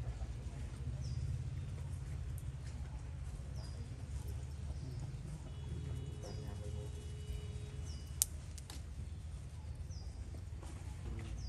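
Short, high chirps repeating every second or two over a steady low hum, with one sharp click about eight seconds in.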